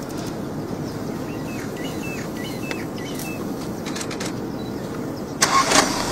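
Steady outdoor background noise with a series of faint, short bird chirps about two to three and a half seconds in, then a sudden loud burst of noise near the end.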